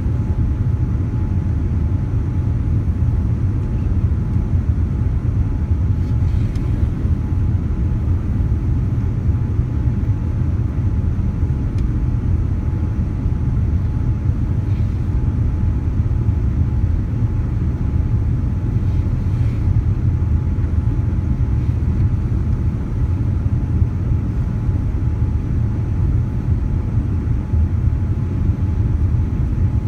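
Steady low cabin rumble inside a Boeing 787 Dreamliner airliner, with a faint steady whine on top.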